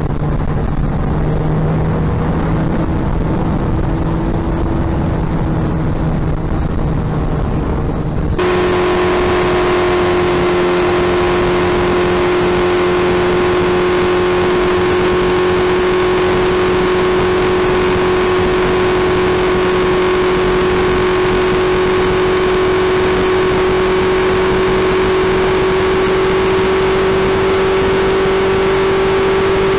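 Suzuki Hayabusa's inline-four engine running at a steady, nearly constant speed, its pitch creeping slowly upward. About eight seconds in the sound changes abruptly and becomes brighter and fuller.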